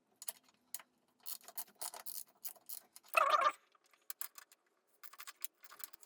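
A small hand tool working a bolt loose: a run of quick light metal clicks and scrapes, with one louder clatter about three seconds in.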